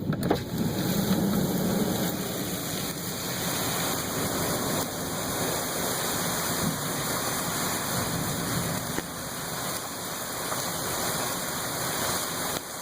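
Torrential thunderstorm rain driven by strong wind, a dense, steady rushing hiss. A low rumble sits under it for the first two to three seconds.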